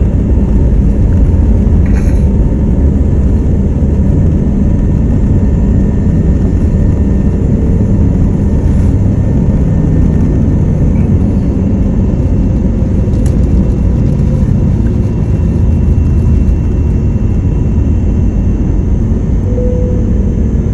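Steady, loud rumble of an Airbus A321neo heard from inside the passenger cabin: engine and airflow noise with no breaks.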